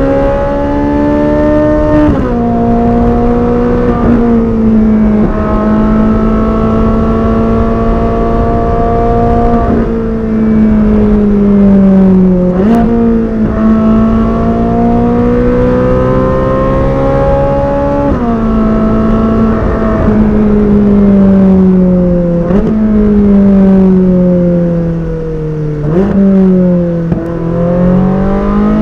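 Ferrari 458 Speciale's naturally aspirated 4.5-litre V8 running hard under way. The pitch climbs and sags with the throttle and jumps sharply at several quick gear changes.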